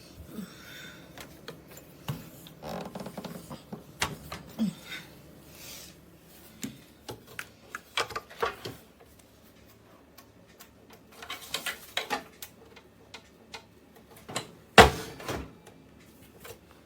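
Scattered clicks, rattles and knocks of hard objects being handled, with one loudest knock near the end.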